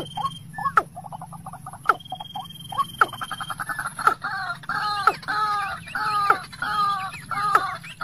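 Birds calling: quick runs of short notes, then from about three seconds in a regular series of louder two-part calls, about two a second. A thin high whistle sounds briefly around the middle.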